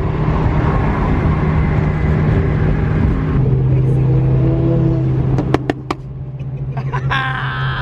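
Car engine running under way, a steady drone whose pitch steps down about three seconds in. A few sharp clicks come around the middle.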